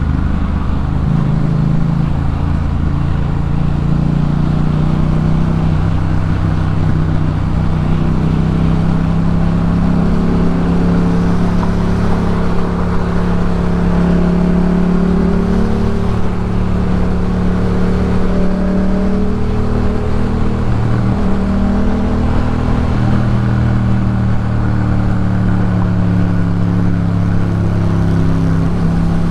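2018 Yamaha MT-07's parallel-twin engine through a Jeskap K4 full aftermarket exhaust, running while riding, its note rising and falling gently with the throttle.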